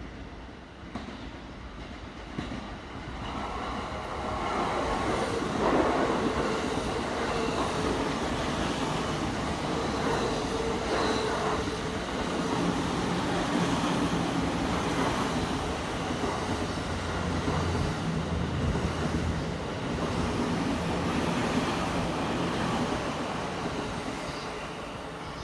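A 15-car JR E233 and E231 series electric multiple unit passing through a station platform at speed without stopping: the rumble of wheels on rail builds from about three seconds in, holds steady as the cars go by, and eases near the end as the train draws away.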